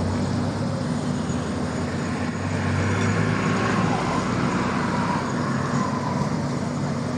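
Heavy diesel engine running steadily, with a swell of road noise from passing traffic about two to four seconds in.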